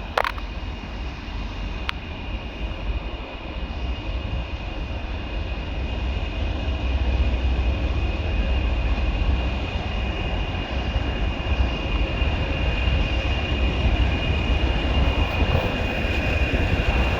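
Diesel locomotives, two British Rail Class 20s and a Class 37, running as they approach, growing steadily louder: a low engine rumble under a steady high-pitched whine. A sharp click just at the start.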